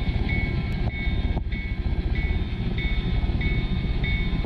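Train rumble with a bell ringing at an even pace, about one and a half strikes a second.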